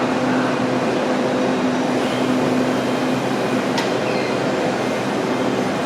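Train running with a loud, steady noise and a constant hum. There is a single sharp click about four seconds in.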